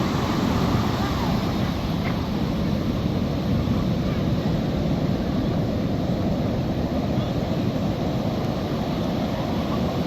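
Ocean surf washing steadily onto the beach, an even unbroken rush.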